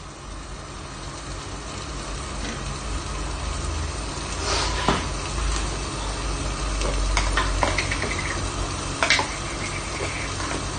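Onion, chili, garlic and tomato sizzling steadily in a pan covered with an aluminium lid, with a few sharp ticks.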